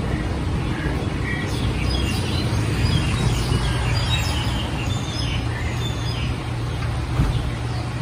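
A number of small birds chirping and singing in short, quick calls, busiest in the middle, over a steady low rumble of road traffic.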